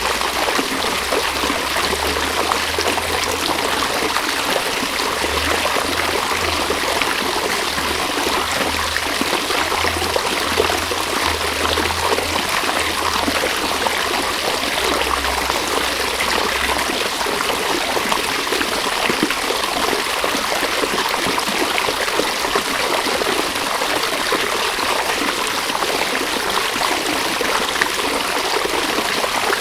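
River water running: a steady, unbroken rush and trickle of flowing water.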